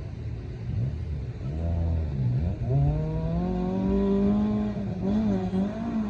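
A rally car's engine revving hard. Its pitch dips about two seconds in, then climbs steeply and holds high, wavering near the end.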